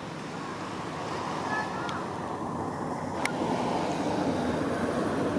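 Rain falling steadily, growing louder, with a single sharp click a little after three seconds in.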